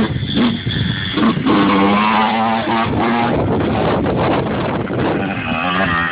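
A Yamaha YZ85 two-stroke dirt bike engine running and revving, its pitch climbing and dropping several times.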